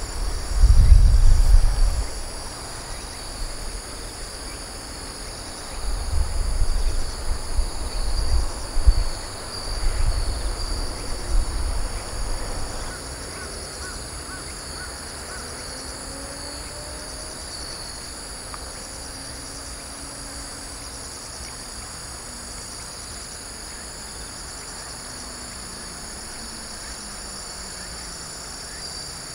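Steady high-pitched chorus of autumn insects, with wind buffeting the microphone in gusts right at the start and again from about six to twelve seconds in.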